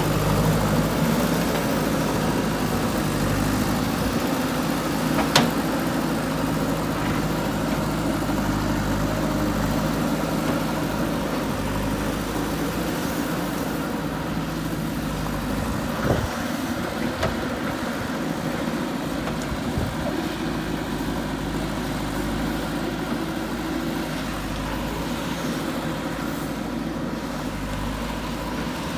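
JCB 3DX backhoe loader's four-cylinder diesel engine running steadily under work, with a sharp knock about five seconds in and another near the middle.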